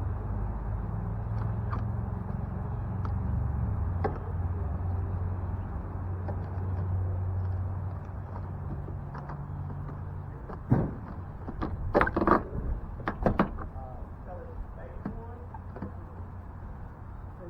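Car interior plastic trim panels being knocked and clipped into place: a run of sharp clicks and knocks in the second half, over a low steady hum that fades out after about ten seconds.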